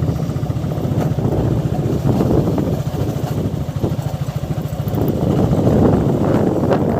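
Motorcycle engine running steadily while riding, with a louder, rougher stretch over the last couple of seconds.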